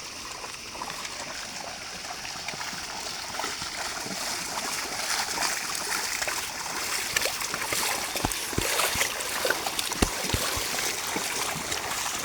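Water splashing and trickling, growing louder after a few seconds, with a few sharp knocks a little after the middle.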